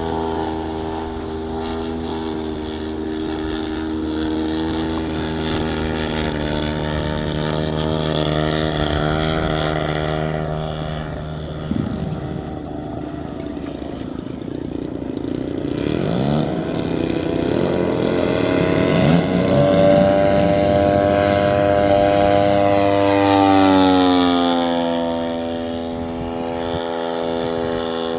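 Large-scale RC airplane's gas engine and propeller running steadily. The pitch slides down and back up as the plane passes, about halfway through and again near the end.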